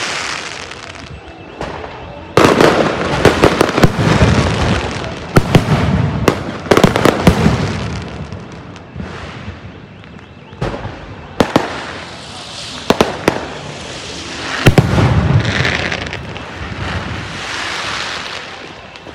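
Aerial fireworks shells bursting overhead in quick succession: many sharp bangs and crackles, some in rapid clusters, with a rushing, hissing noise between them.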